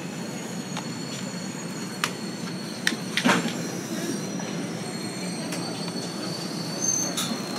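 Rocky Mountaineer passenger train running, heard from inside the coach: a steady rumble with thin, high wheel squeal, broken by several sharp clicks and knocks, the loudest a little over three seconds in.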